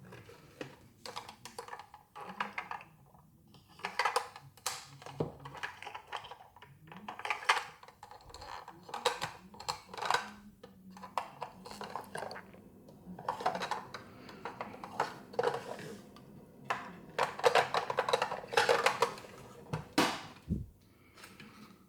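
Small plastic toy pieces and packaging being handled: irregular clicks and taps of hard plastic, with crinkling of plastic wrapping that is densest about 17 to 19 seconds in.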